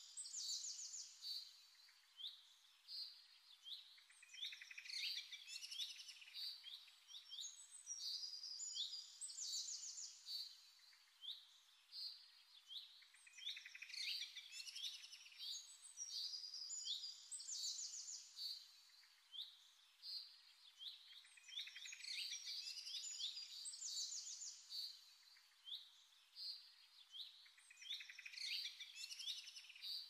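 Small songbirds chirping and trilling in quick, high-pitched phrases, one phrase after another.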